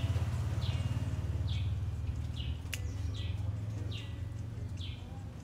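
A bird repeating a short, high, falling chirp about once a second, over a steady low rumble, with one sharp click about three seconds in.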